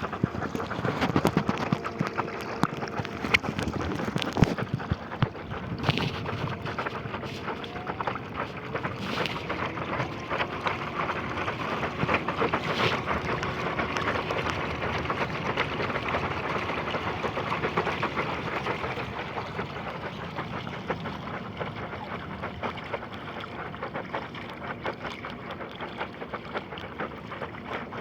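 6384 brushless outrunner motor running under load and barely audible: a faint steady whine sits under wind and rolling noise. There are many small clicks and knocks, with a few louder ones in the first half.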